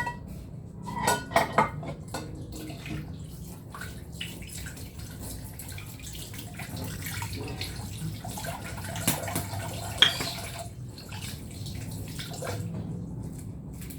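Kitchen utensils and dishes clinking and clattering, with a cluster of sharp clinks about a second in and a few louder ones near the end.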